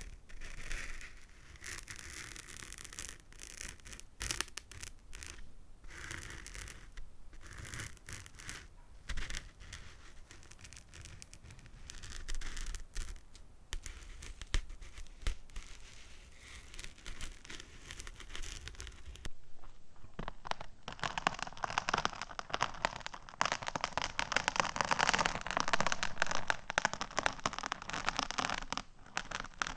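Fingernails tapping and scratching on small hard objects in irregular strokes. About two-thirds of the way through, the sound changes abruptly to a denser, faster crackling patter.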